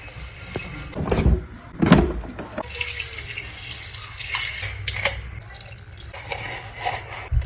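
Fridge restocking sounds: containers set down with two solid knocks about a second apart, then clicks and the splash and trickle of liquid being handled.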